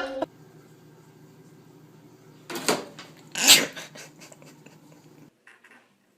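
A pet animal makes two short, sharp sounds about a second apart, against a faint background hum.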